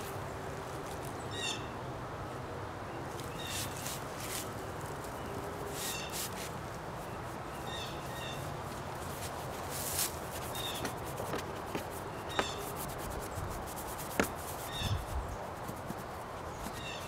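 A bird calling in short high chirps, one every couple of seconds, over a steady background hiss, with a few sharp clicks.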